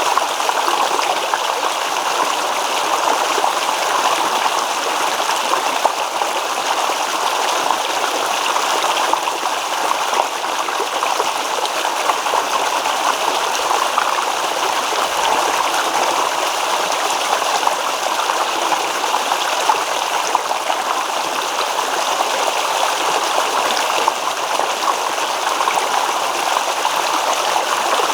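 A shallow stream babbling over stones, a steady rush of running water with fine gurgles and trickles.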